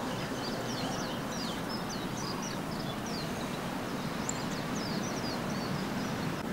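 Small birds chirping: many quick, high chirps over a steady outdoor hiss, thinning out near the end.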